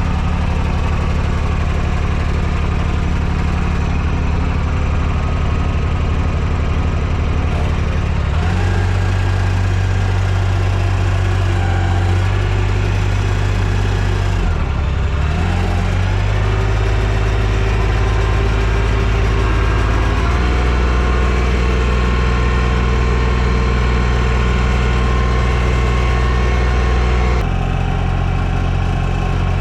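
TYM T224 subcompact tractor's three-cylinder diesel engine running steadily, its note shifting several times: it rises about a third of the way in, dips briefly around halfway and picks back up, and changes again twice toward the end.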